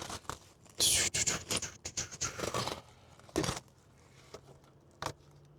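Hand-handling noises while working in a car's engine bay: irregular scraping, rustling and clicking, with a sharper knock about three and a half seconds in and a single click near the end.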